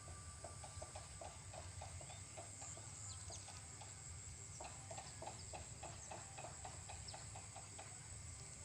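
Swiftlets calling: short high chirps that fall in pitch, scattered through, over runs of low, rapid pulsed calls at about five a second that break off briefly around three and four seconds in.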